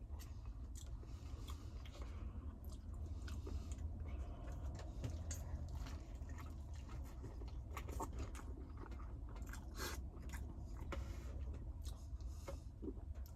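A person chewing and eating close to the microphone: irregular wet clicks and crunches, over a low steady hum.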